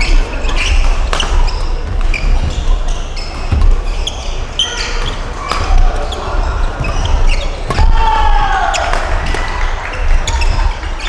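Badminton doubles rally on an indoor court: a run of sharp racket hits on the shuttlecock and footfalls. Short, high squeaks of court shoes on the floor come between them, with a longer falling squeal about eight seconds in.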